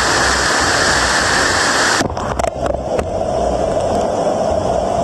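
Waterfall rushing, a loud steady hiss that cuts off abruptly about two seconds in. A quieter, lower rushing with scattered clicks follows.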